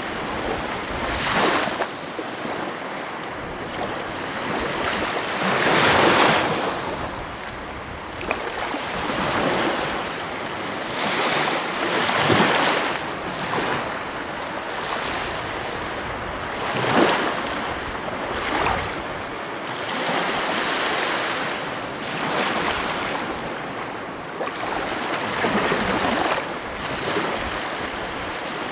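Heavy ocean waves breaking on the shore: a continuous wash of surf, with louder surges as waves crash every few seconds.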